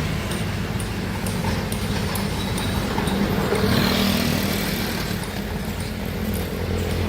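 Heavy earthmoving machinery's diesel engine running steadily, a continuous low drone.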